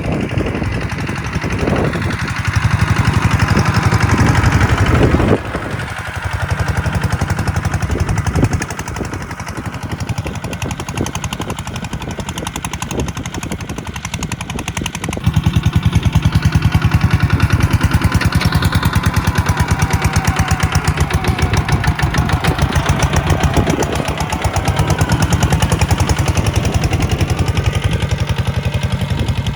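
Kubota tractor's diesel engine running, with a rapid, even stream of firing pulses from the exhaust. It gets louder for a few seconds near the start and again from about halfway through.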